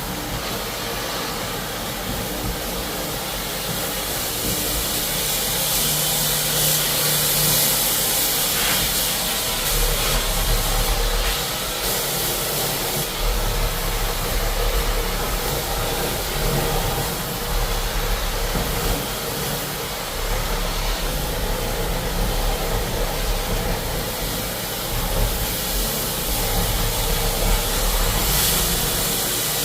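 Floor-cleaning equipment running steadily: a continuous hiss over a low hum.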